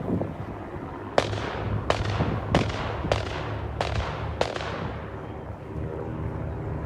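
Six sharp bangs, each trailing off in a short echo, coming about every half second to second, over a steady low drone.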